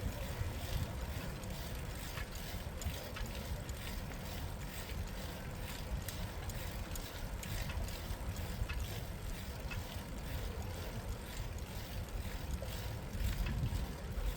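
A bicycle riding along a city cycle path: steady low wind rumble on the microphone and tyre noise, with scattered light clicks and rattles throughout.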